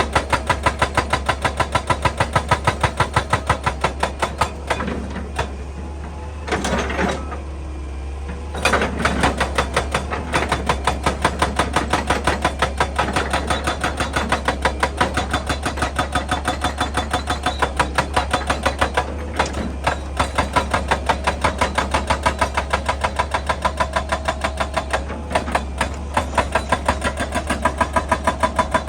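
Excavator-mounted hydraulic breaker hammering rock in a fast, even run of blows, several a second, over the machine's engine. The hammering stops for a few seconds about five seconds in, then starts again and keeps going.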